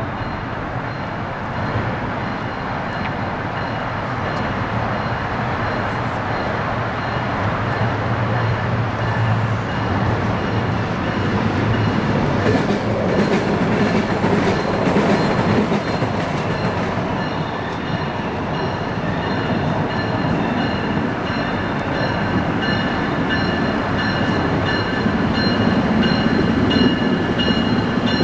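Train rolling past, its wheels running on the rails, growing louder toward the end. Faint thin high tones join in during the second half.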